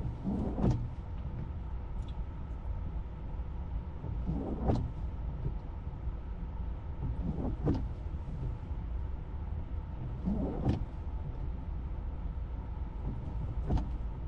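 Tesla windshield wipers making a sweep across snowy glass about every three seconds, each pass a short swish with the wiper motor's whir, over a steady low rumble of road noise inside the cabin.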